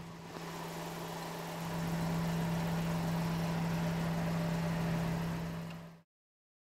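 Car engine idling steadily, a little louder from about two seconds in; the sound cuts off abruptly near the end.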